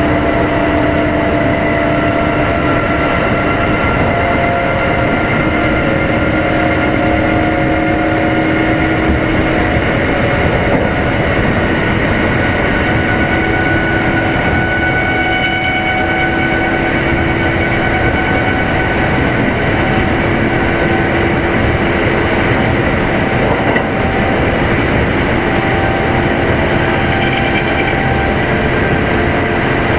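Kintetsu 2610 series electric train heard from inside motor car Mo 2616 while running between stations: a steady rumble of wheels on rail with a whine of motor and gears, its pitches drifting slowly as the speed changes a little.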